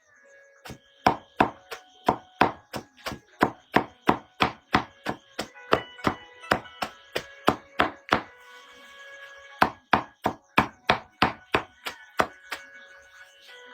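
Rapid chopping strokes, about three a second, with a pause of a second or so partway through before they resume. Soft background music with held tones runs underneath.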